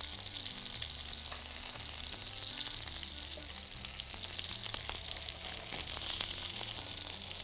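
Chicken skin frying in its own fat in a pan, a steady sizzle, with a few light ticks of tongs against the pan as the crisp pieces are lifted out.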